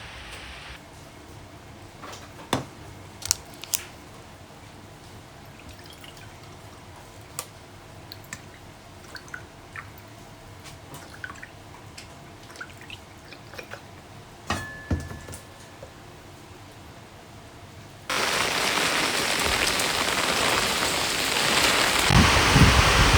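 Quiet room with scattered small clicks and taps of things being handled, and one short ringing clink. About eighteen seconds in, the sound cuts abruptly to loud, steady typhoon rain, with low rumbling near the end.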